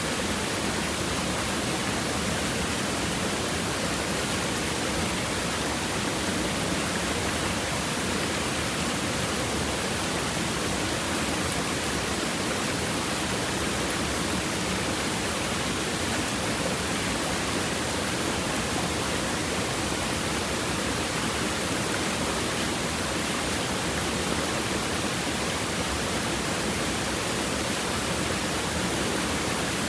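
River water rushing and babbling over rocks, a steady, even rush that never changes.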